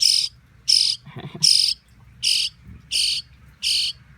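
Nestling birds giving a steady run of shrill, harsh chirps, about one every 0.7 seconds, six in all: the begging calls of hungry baby birds.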